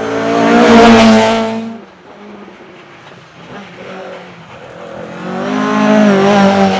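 Racing Ford Anglia's twin-cam engine running hard on a hill climb. It is loudest about a second in and drops away suddenly just before two seconds, then builds again to a second loud peak about six seconds in.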